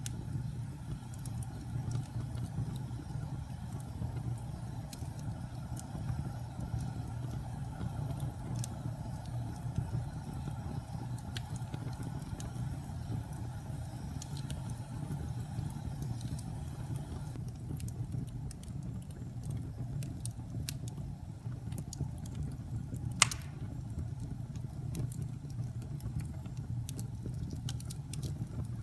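Wood fire burning in a fireplace: a steady low rumble of flames with scattered small crackles and one louder pop about two-thirds of the way through.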